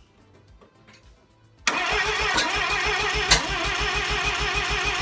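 Starter motor cranking a Mazda rotary engine for about three and a half seconds, starting about 1.7 seconds in, with an even rapid pulsing and a warbling whine, while the coil lead is on a tester spark plug to check for spark. Two sharp clicks sound during the cranking, and the engine does not catch.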